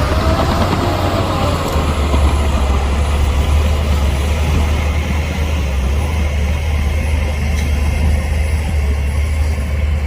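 Heavy earthmoving machinery's diesel engine running steadily with a deep hum, a brief whine falling in pitch in the first second or so.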